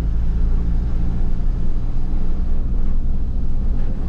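Car engine running steadily in fourth gear under a constant low road rumble, just after a downshift from fifth while slowing behind a bus.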